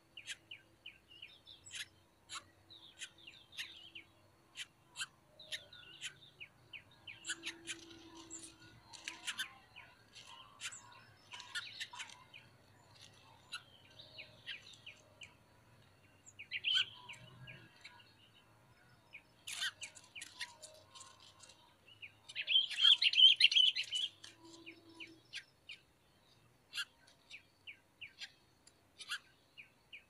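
Birds chirping: short, sharp chirps scattered throughout, with a louder, dense run of chirping about three-quarters of the way through.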